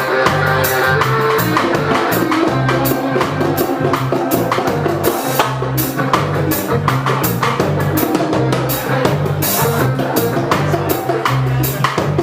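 Live reggae band playing: drum kit keeping a steady beat over a repeating bass line, with guitar.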